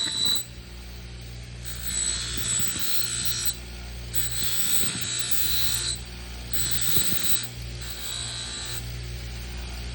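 Bench grinder running steadily with a Scotch-Brite radial wheel, a serrated knife edge pressed against it in three passes of a few seconds each, each adding a higher grinding noise over the motor hum. This is the final step that removes the burr and polishes the edge.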